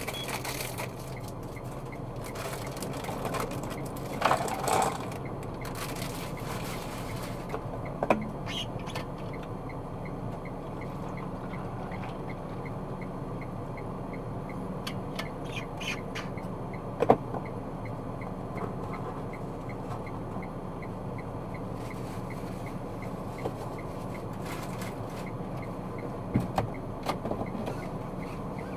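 Steady road and engine noise heard inside a moving car, with a few brief knocks scattered through it and a faint regular ticking through the middle.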